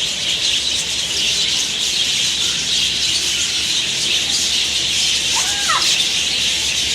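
A flock of small birds chattering: many overlapping high chirps, with a couple of louder rising-and-falling squawks near the end.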